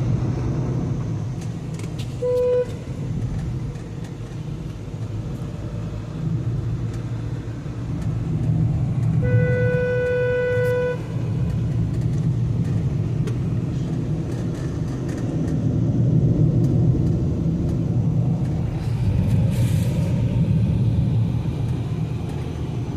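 A VW Vento driving on the road, with a steady rumble of engine and road noise. A car horn gives a short toot about two seconds in and a longer blast of nearly two seconds around ten seconds in.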